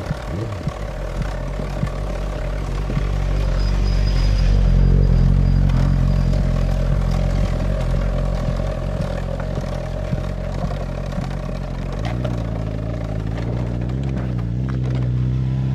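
A motor vehicle engine running steadily close by, then revving up with rising pitch over the last few seconds.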